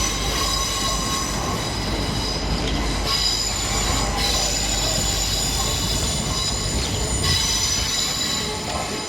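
Train pulling out of a station at low speed: several steady high-pitched whines or squeals over a constant low rumble, the whines fading and returning a few times.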